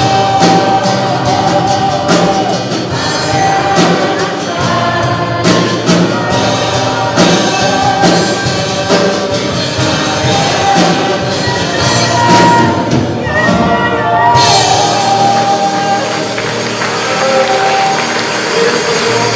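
Church congregation and band singing an upbeat gospel song, with a steady beat of percussion and tambourine.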